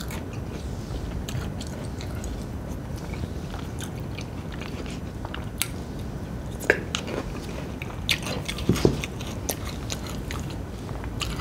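A person chewing and biting food close to the microphone, with scattered sharp clicks and crunches, several of them clustered in the second half.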